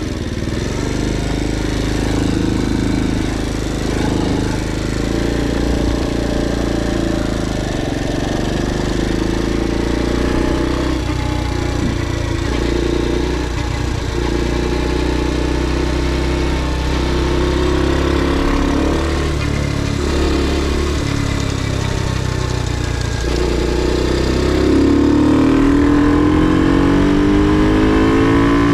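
Ohvale GP2 mini motorcycle's single-cylinder four-stroke engine heard onboard at track pace, its revs rising and falling through corners and gear changes. Near the end the revs climb in a long rising sweep.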